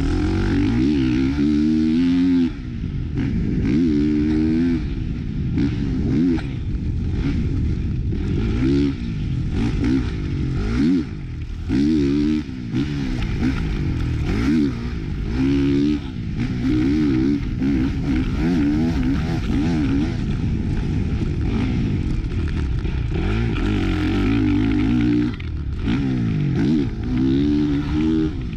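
Motocross dirt bike being ridden hard: its engine note climbs and drops again and again as the throttle is opened and rolled off, with short dips in loudness every few seconds.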